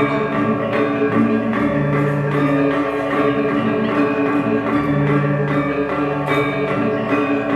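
Balinese gamelan ensemble playing a tabuh telu: bronze metallophones ringing in steady interlocking patterns, with a low tone that recurs about every three seconds.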